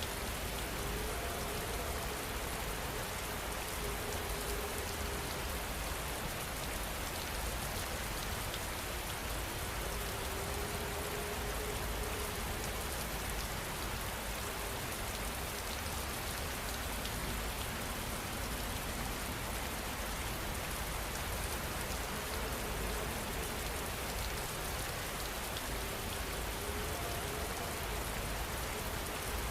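Steady rain falling, an even hiss of raindrops on a surface that does not change.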